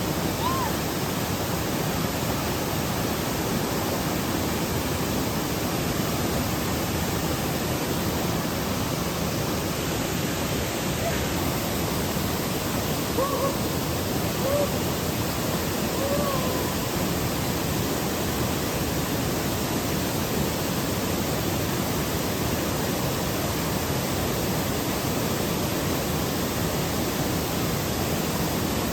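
Mountain valley stream rushing over rocks: a steady, even rush of water. Faint distant voices come through a few times around the middle.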